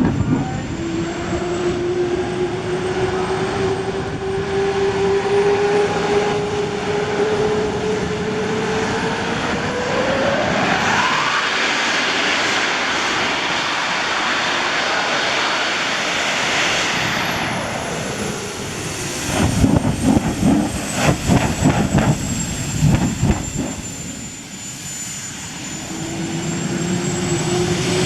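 Monster truck engine running hard: its pitch climbs steadily for about ten seconds into a loud full-throttle stretch. Around twenty seconds in come a series of short, loud bursts of throttle, and the engine note rises again near the end.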